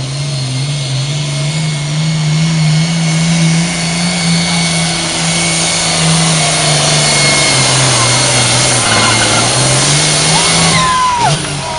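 Farm tractor engine running hard at high throttle, pulling the weight sled in a tractor pull. The engine note holds steady, sags slightly near the end, then drops away suddenly about eleven seconds in as the run ends in a full pull.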